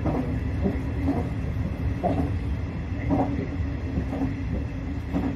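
Nishitetsu electric train running along the line, heard from inside the front car: a steady rumble of wheels on rail with a faint hum, and a clickety-clack knock about once a second.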